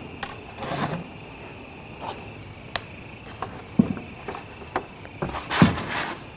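A series of irregular knocks, taps and short scrapes, the loudest cluster near the end, over a faint steady high-pitched hum.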